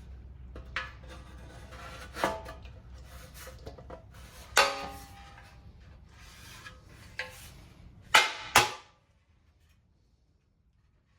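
A steel shovel head and a wooden handle knocking and clanking as they are handled and fitted together. One metal clang about halfway through rings on briefly, and two sharp knocks come near the end, over a low steady hum.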